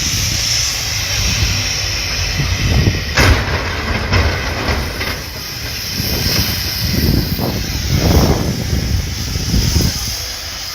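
Vehicle noise, as heard from a dash camera on a snowy highway: a steady rumble and hiss with a sharp knock about three seconds in and several duller thumps after it.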